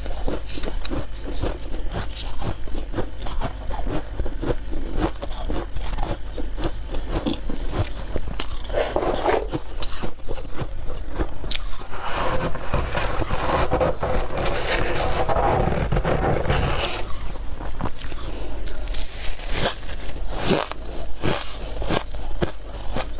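Soft, powdery freezer frost being scraped and crunched: a dense, continuous run of crackly crunches that thickens for a few seconds in the middle.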